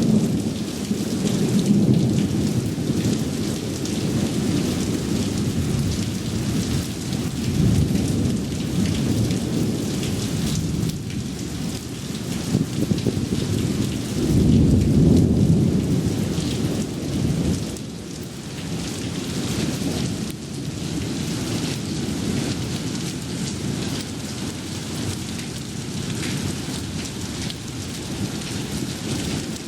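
Heavy rain pouring steadily, with thunder rumbling over it in long rolls. The loudest swell comes about halfway through and dies away a few seconds later.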